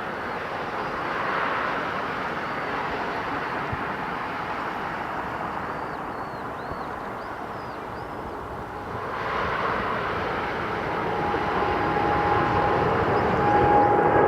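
Jet airliner engines running as the aircraft moves on or near the runway: a steady noise that swells, grows louder toward the end, and gains a steady high whine in the last few seconds.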